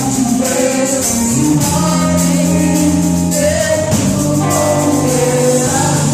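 Live gospel worship music: a band playing with a shaken tambourine while voices sing.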